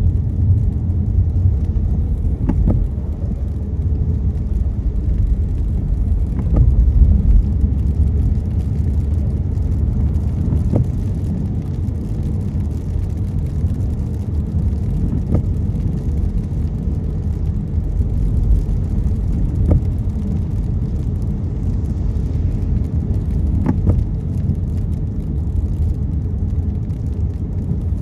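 Steady low rumble of a car driving on a wet road, heard from inside the cabin, with a faint click about every four seconds.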